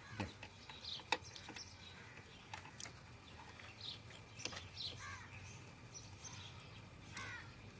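Faint clicks and knocks of parts being handled while the gas pipe is refitted onto a CNG injector, a few sharp ones spread through, with birds chirping now and then in the background over a low steady hum.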